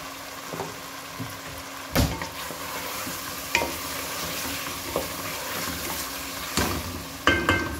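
Chicken pieces sizzling as they fry down in oily onion-tomato masala in a metal pot, being browned for a gravy curry, while a wooden spoon stirs them, with a few sharp knocks of the spoon against the pot.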